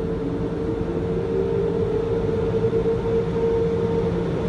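Automatic car wash blower dryer running: a steady rush of air with a constant whine.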